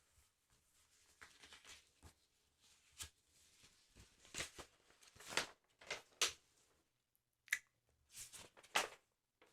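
Paper handling on a football sticker album, pages and stickers: a series of short, crisp paper rustles and taps, the sharpest ones just past the middle and near the end.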